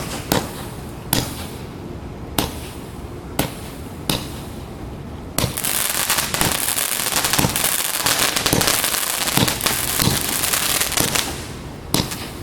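A 96-shot fan cake firework firing: sharp shots lifting off about once a second, then about five seconds in a dense crackling that lasts some six seconds while the lifts keep thumping through it, then single shots again near the end.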